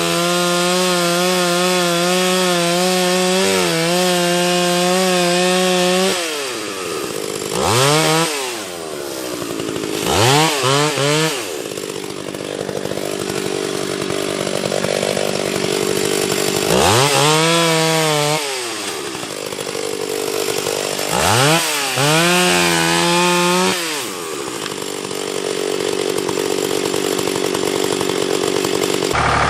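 Two-stroke chainsaw held at high, steady speed for about the first six seconds, then revved up and let back down several times.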